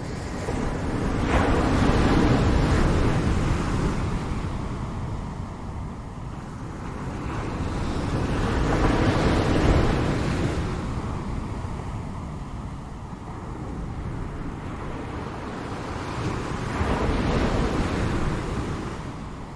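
Ocean waves breaking on a shore with a steady low rumble of surf; three waves swell and wash in, about two seconds, nine seconds and seventeen seconds in, each fading slowly.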